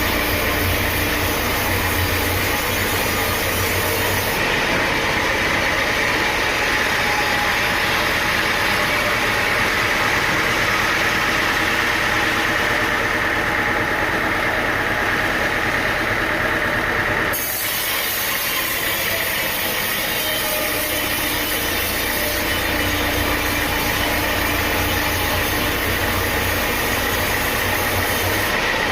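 Sawmill machinery running steadily: an engine-like drone with a continuous high whine, changing abruptly in tone about two-thirds of the way through.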